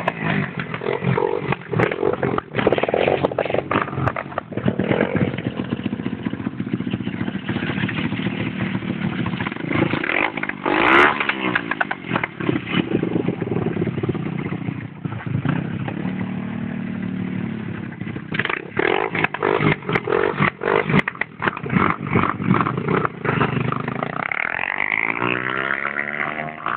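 150cc pit bike engine running and being revved, its pitch rising and falling, with a rising rev near the end.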